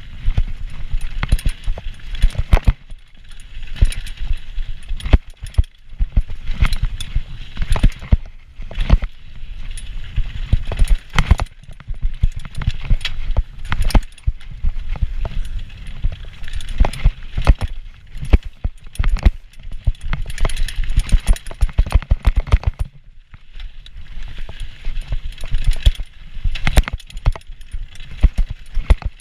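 Diamondback Heist 2.0 hardtail mountain bike ridden over rough trail: a constant irregular clatter of sharp knocks and rattles as it hits bumps, over a low rumble of tyres and wind.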